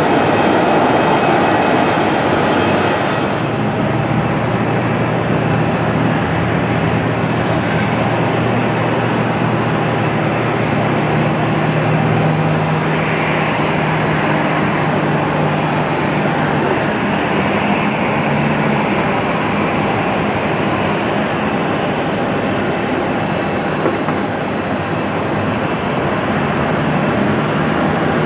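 Airbus A321 jet engines at takeoff power, a loud, steady roar with a low hum underneath that drops slightly in pitch about halfway through.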